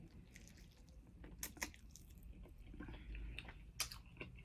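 A person chewing food close to the microphone: scattered soft, wet mouth smacks and clicks, the clearest about a second and a half in and near the end.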